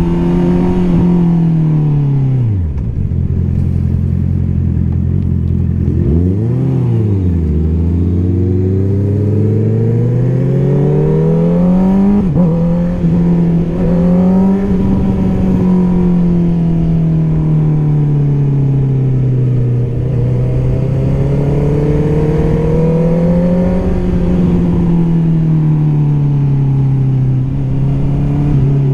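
Honda CBR650R's inline-four engine through an Akrapovic exhaust, dropping to low revs a few seconds in, with a quick throttle blip, then pulling up through the revs to a sharp shift about twelve seconds in. It then runs on with the revs rising and falling gently.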